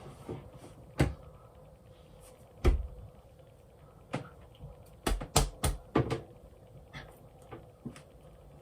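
Irregular knocks and clicks of handling, some sharp, with a heavier thump a little under three seconds in and a quick cluster of them about five to six seconds in.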